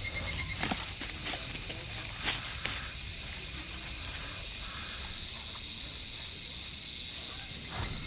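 Insects chirring in a steady, high-pitched chorus, with a few faint clicks; it cuts off suddenly at the end.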